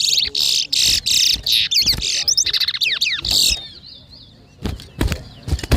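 Towa towa (chestnut-bellied seed finch) singing fast, rapid warbling and whistled phrases in a song contest. The song is dense and loud for the first three and a half seconds, then softer, with a few sharp knocks near the end.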